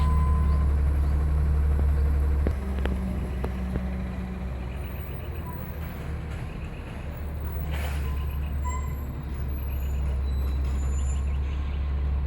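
Front-loader garbage truck's diesel engine running with a heavy low drone that drops off about two and a half seconds in and builds up again near the end, with a few clicks and knocks.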